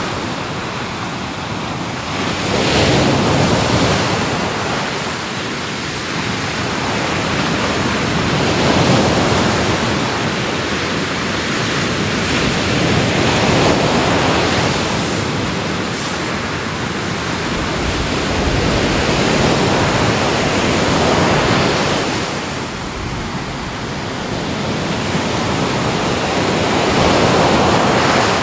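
Ocean waves breaking and washing on a shore, the surf rising and falling in swells every few seconds.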